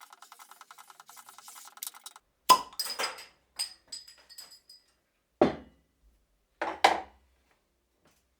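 Tools and hardware being handled at a workbench: a fast, even rattle for about two seconds, then a sharp metallic clink followed by several lighter clinks, and two heavier knocks near the end.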